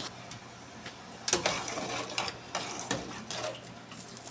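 Irregular scraping and clicking of a utensil against a cooking pot, as a sauce is stirred and handled, busiest from about a second in.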